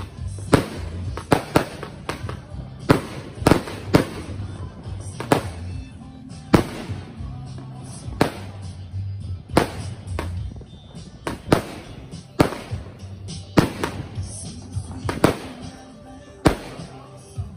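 Consumer aerial fireworks (cakes) going off in a long irregular string of sharp bangs and aerial breaks, roughly one or two a second. Music with a steady low bass line plays underneath.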